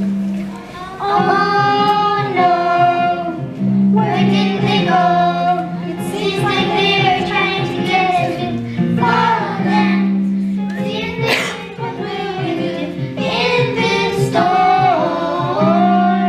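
Children singing a melody from their opera over instrumental accompaniment.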